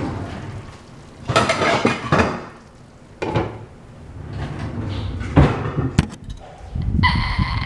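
Dishes and cutlery clattering in a kitchen: several separate bursts of knocking and clinking, with a sharp click about six seconds in. Near the end a high whine begins.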